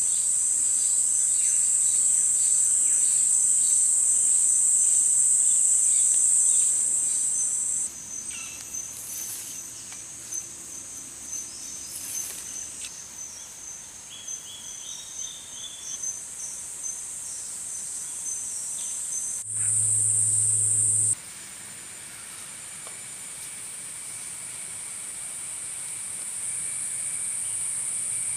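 A steady, high-pitched insect chorus, with a thin steady tone just below it and a few faint bird chirps. The chorus drops abruptly about eight seconds in, then jumps louder for a moment around twenty seconds before settling lower again, as at edits between takes.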